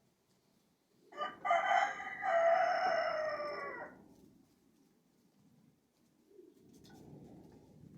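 A rooster crowing once, starting about a second in and lasting about three seconds, over the low cooing of domestic pigeons.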